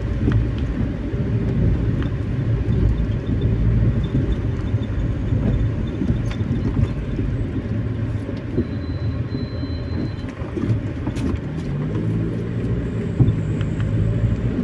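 A car driving: a steady low engine and road rumble. The engine note rises a little about twelve seconds in.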